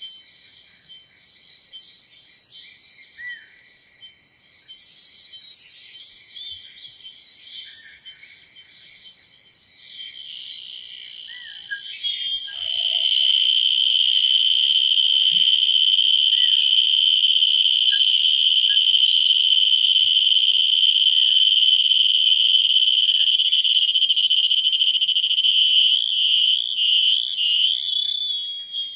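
A male cicada calling with its tymbals. For the first ten seconds or so it gives a rapid series of high-pitched pulses, about two a second. After a brief lull it switches, about twelve seconds in, to a loud, continuous, high-pitched buzz.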